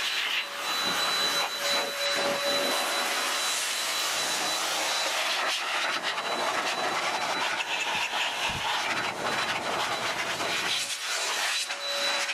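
Electric car-drying blower (Air Force Master Blaster) running steadily, a rush of forced air with a thin high motor whine, blowing water off a car's paint.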